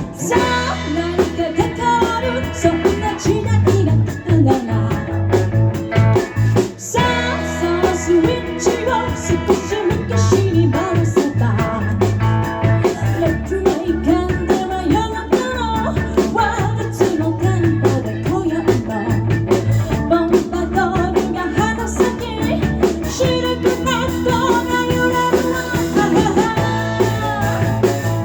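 Live band playing a rock-and-roll number: electric guitar, bass and drum kit with a winding lead melody, briefly breaking off just before seven seconds in.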